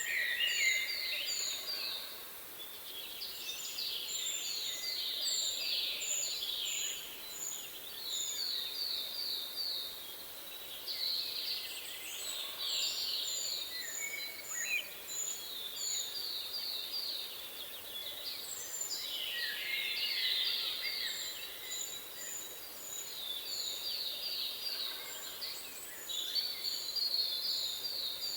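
Songbirds singing in short runs of quick, high repeated notes, the phrases coming back every few seconds, over a steady background hiss of wind.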